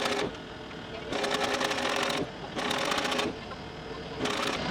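Powered post driver hammering a steel pipe fence post into the ground with rapid blows, in bursts of about a second with short pauses between them.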